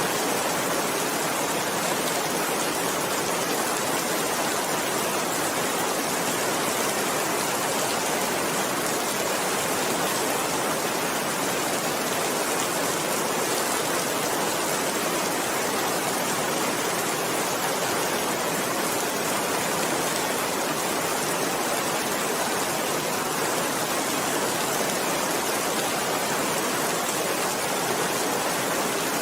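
Steady rain falling, an even hiss that holds at one level throughout, with no thunder or single drops standing out.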